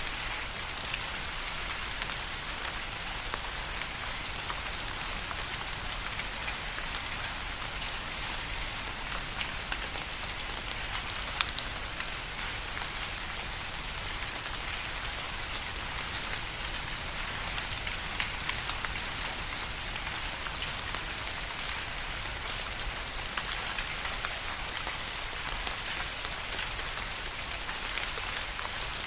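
Steady rain falling, a dense even hiss with many distinct individual drops ticking through it and now and then a louder drop hit.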